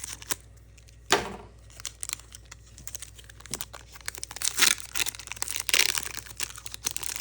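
Foil wrapper of a Pokémon booster pack crinkling and tearing as a tight pack is worked open, with a sharp crackle about a second in and denser crinkling around four to six seconds.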